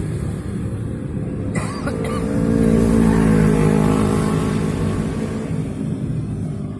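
Brush cutter engine running, revving up about two seconds in and easing back down, with a short sharp noise just before the rev.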